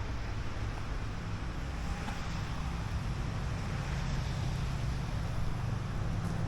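Steady low rumble of motor vehicle traffic, with a constant low hum.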